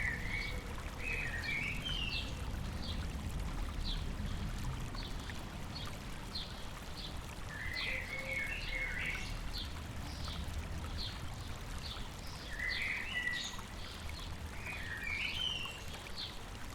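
Birds singing over a running stream. One bird repeats a short high chip about twice a second, while another sings short warbled phrases four times; the stream keeps up a steady low rush underneath.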